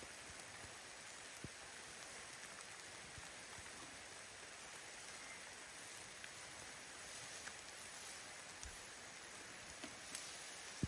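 Gentle rain falling steadily, an even hiss with a few faint ticks of drops and one sharper click near the end.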